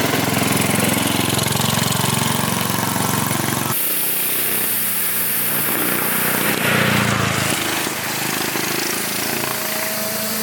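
Subaru KX21 kart engine running at a steady low idle with a pulsing throb. About four seconds in, the low throb thins and a higher hiss takes over.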